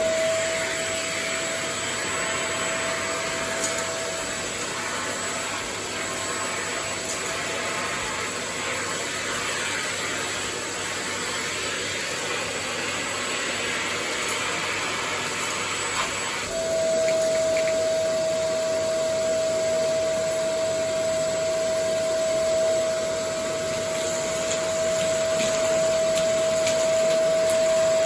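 Vacuum cleaner running steadily, a rushing noise with a high whine; the whine fades out about a quarter of the way through and cuts back in abruptly a little past the middle.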